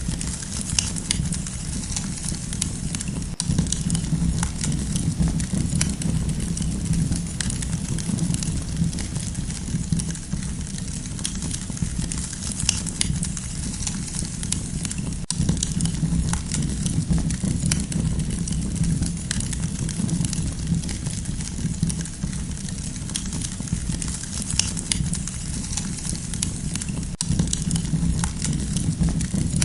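Wood campfire crackling, with frequent sharp pops and snaps over a steady low rumble of the flames.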